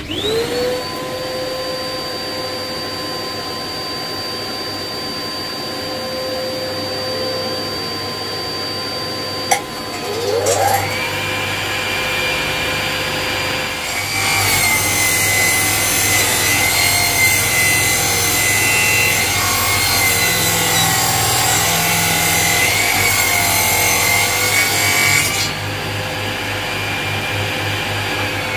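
Dust extractor switched on and running steadily; about ten seconds in a power saw spins up beside it with a rising whine. From about fourteen seconds the saw cuts through a board of lime wood, a loud hissing cut lasting about eleven seconds, then the saw runs free again.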